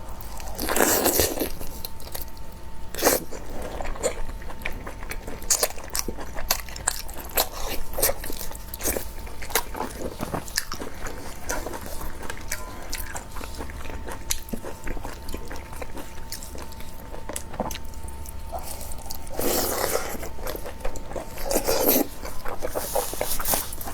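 Close-miked eating: a person chewing and biting, with many small wet clicks and crackles from the mouth and a few louder, longer bursts about a second in and near the end. A faint steady high tone hums underneath.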